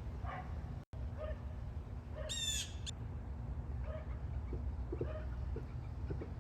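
Birds calling in a fruit tree: short, faint calls about once a second, and one louder harsh, buzzy call about two seconds in, over a steady low rumble.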